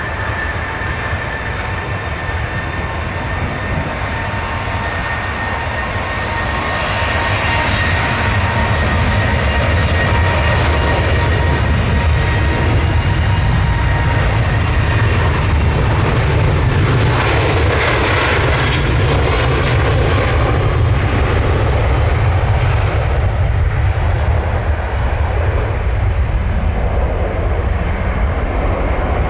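Boeing 737-700 twin jet engines at takeoff power, with a steady high whine at first, then a jet noise that swells, is loudest about two-thirds of the way through, and eases off near the end as the aircraft passes.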